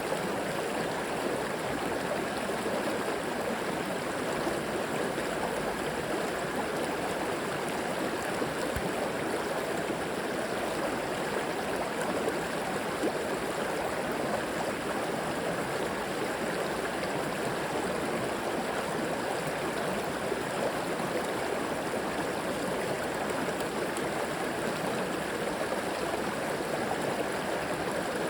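River water flowing and gurgling over stones, a steady, even rush without change.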